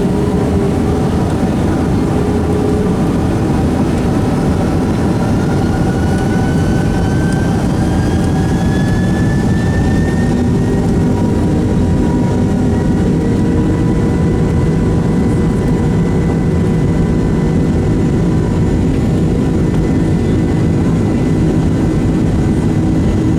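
Boeing 767-200's jet engines spooling up for takeoff. A whine rises in pitch over about the first ten seconds, then holds steady at takeoff power over a loud, steady rush of engine noise.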